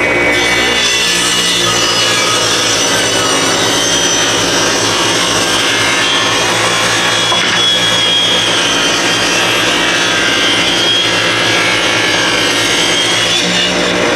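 Power saw running steadily while its blade rips lengthwise through a pine 2x4. The blade starts into the wood just after the start and comes out of the cut near the end.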